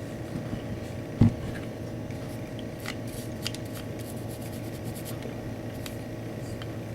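Small handling sounds at a workbench: scattered light clicks and rubbing, with one dull thump about a second in, over a steady low hum.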